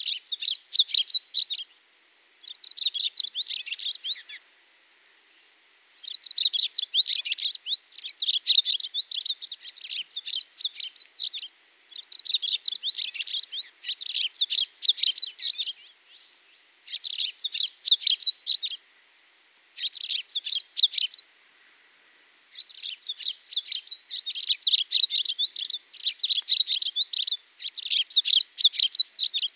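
Small bird chirping in quick bouts of rapid high notes, each bout lasting one to two seconds, with brief pauses between them.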